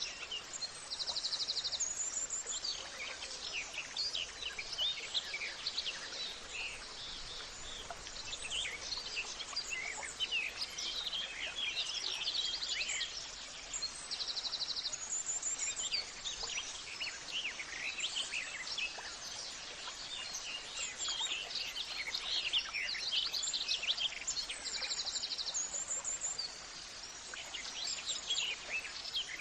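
A dense chorus of many birds chirping and singing without a break. A short, rapid, buzzy trill from one bird repeats every few seconds.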